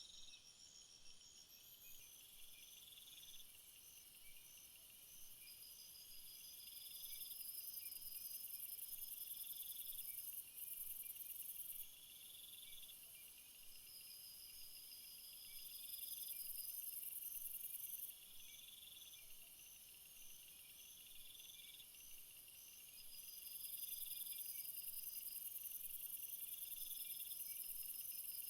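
Chorus of crickets and other insects: several overlapping chirping trills at different pitches, some repeating in short phrases every couple of seconds, with a very high-pitched buzz that swells and fades a few times.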